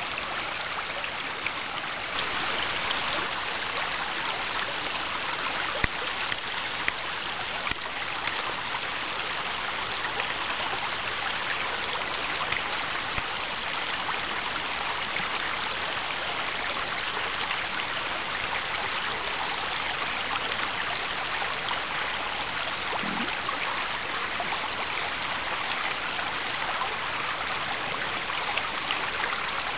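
Small waterfall of spring snowmelt water, its rushing steady, a little louder about two seconds in.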